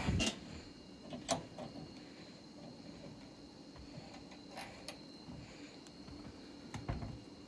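Scattered clicks and light knocks of hand tools and metal parts being handled inside a 1968 Saab 95 door during a repair. The two loudest come right at the start and about a second later, with fainter ones near the middle and toward the end.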